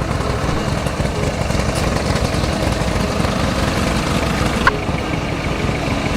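A car engine idling steadily, with a brief high chirp about four and a half seconds in.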